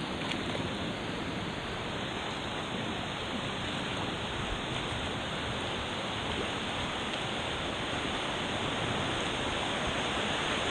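Whitewater of a creek rushing steadily over rapids, growing slightly louder near the end.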